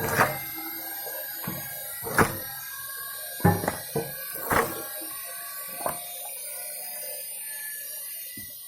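Firewood being split: a series of sharp, irregular knocks and cracks, about seven over six seconds, then only a steady background hum.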